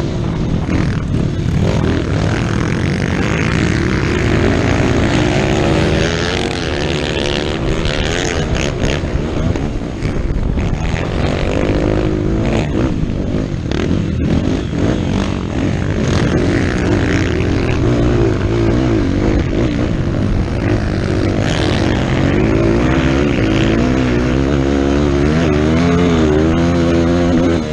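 Motocross motorcycle engine revving up and down repeatedly as it is ridden hard, its pitch climbing and dropping with throttle and gear changes, over a steady rushing noise.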